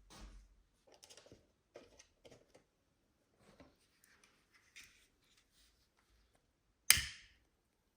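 Soft rustling and scraping as hands handle objects, a few short strokes at a time, then one sharp knock near the end.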